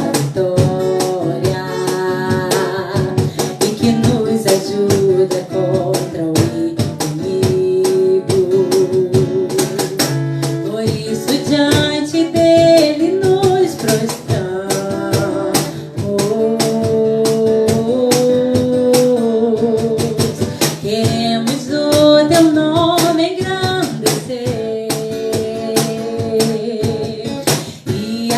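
Worship song performed live: singing over guitar with a steady percussive beat.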